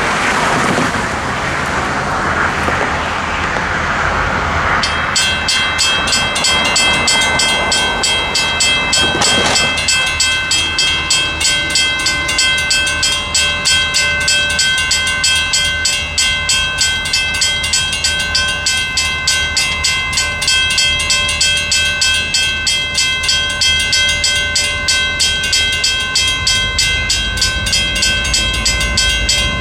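Grade-crossing signal's WCH mechanical bell starting to ring about five seconds in, a steady, fast, evenly repeated clanging that warns of an approaching train. Traffic noise fills the first seconds, and a low rumble builds near the end.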